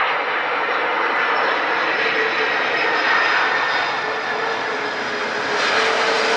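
Airplane engines running, a steady rushing noise with a held hum and a higher whine that grow a little louder near the end.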